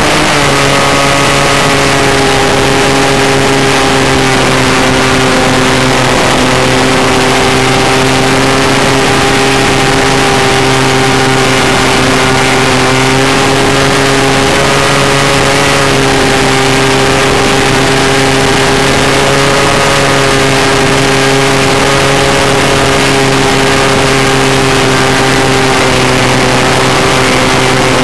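Falcon 56 RC model airplane's engine running steadily in flight, heard close up from the onboard camera. Its pitch drops a little right at the start, then holds with slight wavering. There is a heavy rush of wind over the microphone.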